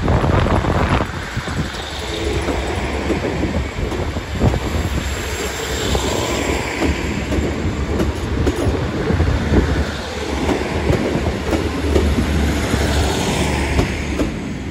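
A two-unit diesel multiple-unit train moving past at low speed, its wheels clicking and clattering over the rail joints above the steady running of its diesel engines.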